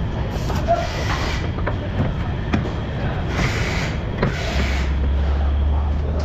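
Workshop background noise: a steady low rumble with a few sharp knocks and clicks, and a short hiss about halfway through.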